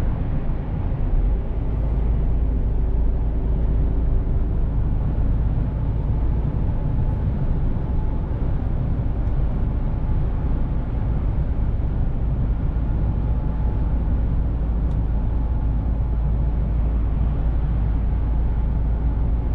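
Mercedes-Benz Actros truck under way: a steady low engine and road rumble, growing heavier at the bottom about a second in.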